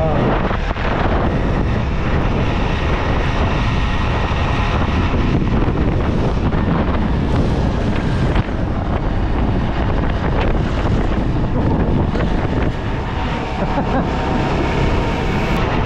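Motorcycle riding at speed: steady wind noise on the microphone over the running engine.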